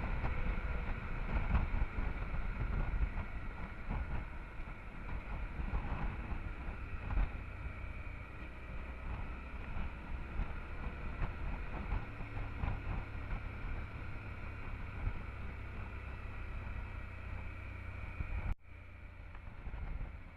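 Riding noise from a Honda Transalp XL 650 motorcycle under way: wind and road noise with the 647 cc V-twin engine running steadily beneath. A little before the end the sound drops abruptly to a fainter hiss.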